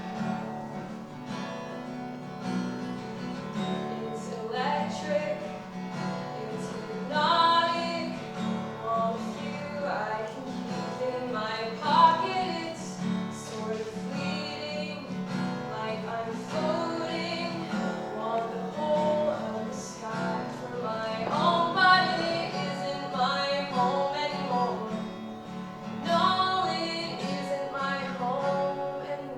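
Music: acoustic guitar playing a steady accompaniment, with a melody line that bends and rises over it from a few seconds in.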